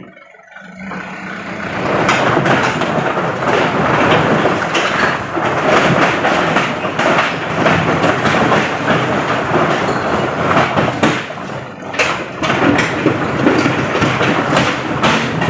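A load of white stone rumbling and clattering as it slides out of the tipping bed of a Canter dump truck, swelling over the first two seconds and then pouring steadily, with the truck's diesel engine humming underneath.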